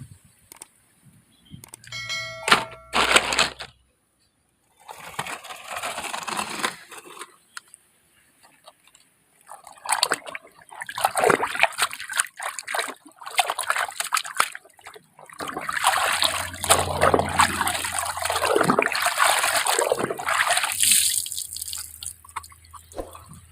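Water sloshing and splashing in uneven bursts as muddy toy vehicles are dunked and rubbed clean by hand, with a brief squeaky tone early on and a longer spell of continuous splashing in the second half.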